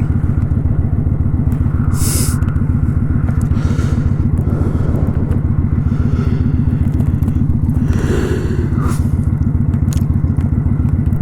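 2018 Kawasaki Vulcan 900 Custom's V-twin engine running steadily while riding, with brief rushes of noise about two seconds in and again around eight seconds.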